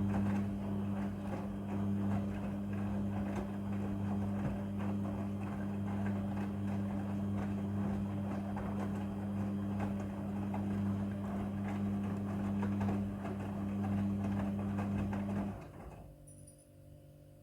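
Midea front-loading washing machine running, its motor humming steadily while the drum tumbles the wet laundry with a busy clatter and swish; the drum stops suddenly about fifteen seconds in, leaving only a faint hum.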